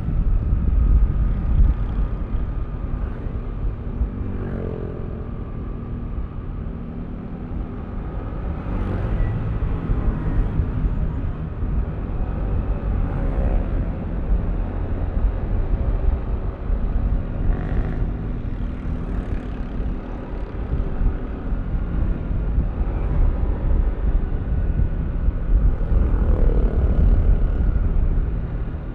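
Yamaha Aerox V3 scooter's 155 cc single-cylinder engine running while riding, with wind rumble on the microphone. The engine pitch rises several times as the throttle opens.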